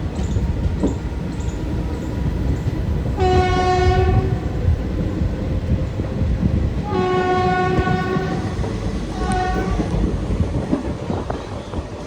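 Passenger train running with a steady rumble and wheel clatter, while a locomotive horn sounds three times: two blasts of about a second each, then a short one.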